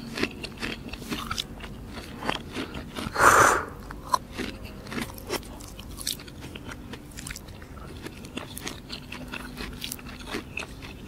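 Close-up mouth sounds of eating: repeated crisp bites, crunching and chewing. One louder, brief noisy sound comes a little over three seconds in.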